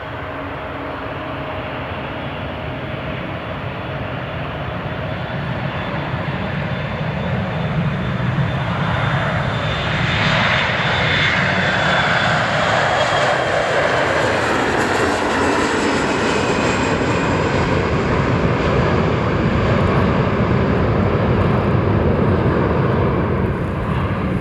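Jet airliner's engines passing close by: the noise builds over several seconds, then holds loud, with a high whine that falls in pitch as the aircraft goes past.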